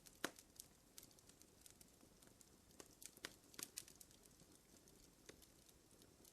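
Fire crackling faintly: irregular soft pops and snaps over a low hiss, a few sharper ones bunched around the middle.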